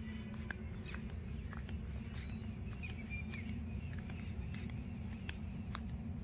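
Outdoor rural ambience: a steady low rumble with scattered sharp clicks, and a brief bird chirp about three seconds in.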